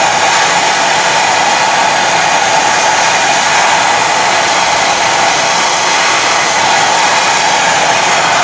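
Sandblast gun blasting tractor wheel nuts: a loud, steady rush of air and grit that does not let up.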